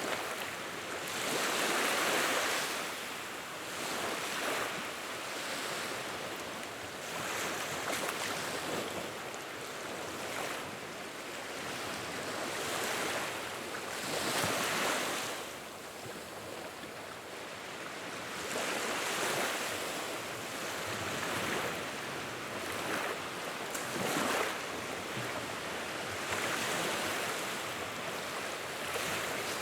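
Wood fire in a fireplace, crackling and hissing steadily; the noise swells and fades every couple of seconds, with a few sharp pops.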